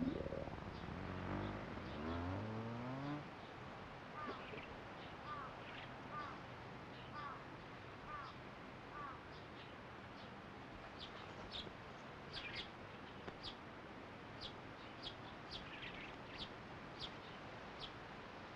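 Small birds chirping in a run of short calls over a faint outdoor background: first a series of falling chirps about once every 0.7 s, then higher, sharper chirps in the second half. In the first few seconds there is a brief low sound that rises in pitch.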